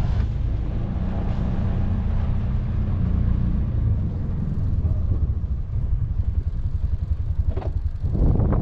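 Can-Am Defender side-by-side's engine running steadily under way, with a louder rush of noise near the end.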